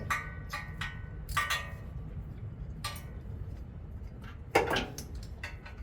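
Metal hand tools clinking against each other and the engine during a spark plug change: about seven sharp clinks, some with a short metallic ring. The loudest comes about four and a half seconds in.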